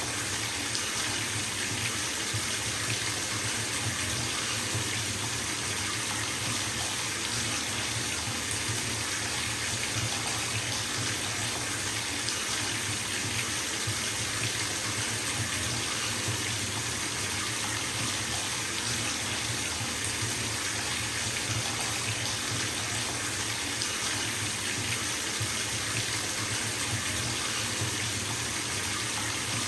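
Bathtub filling from its tap: a steady stream of water pouring into the tub, an even rushing that does not change.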